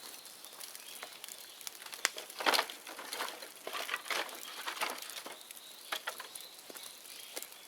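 Bonfire of dead bamboo crackling, with scattered sharp pops and a louder burst of crackles about two and a half seconds in.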